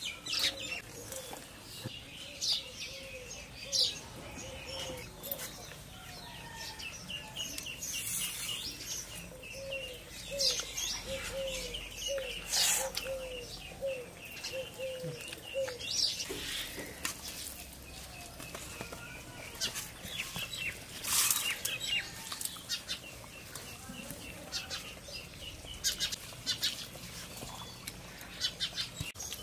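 Birds calling: quick, high chirps repeated through most of the stretch and a series of low arched call notes about two a second in the middle, with a few sharp clicks and taps.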